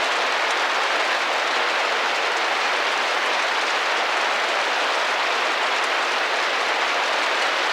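Steady rain falling on a window, an even hiss of many drops with no breaks or changes in level.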